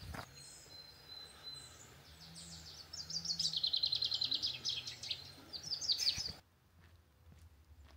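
A songbird singing: a quick series of notes runs into a fast trill of repeated notes, loudest in the middle, and breaks off suddenly a little after six seconds. Faint footsteps follow near the end.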